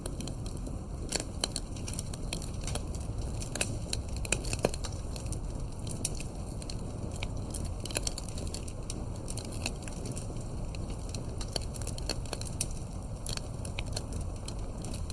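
Campfire crackling over a steady low rumble: irregular sharp pops and snaps of burning wood, a few louder ones near the start.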